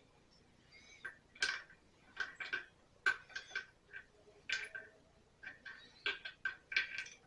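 Irregular light metallic clicks and clinks, many in quick succession and unevenly spaced, from small metal parts such as a spark plug and ignition wire being handled and fitted.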